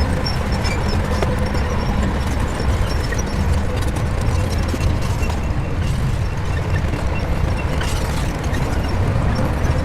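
Shantui crawler bulldozer's diesel engine running steadily with a low rumble.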